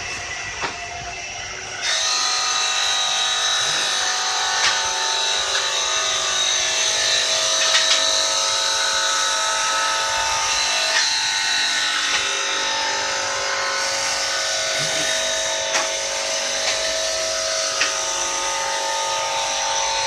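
Mosaic tile cutting machine running with a steady motor whine, which gets louder about two seconds in and stays so, with a few sharp clicks.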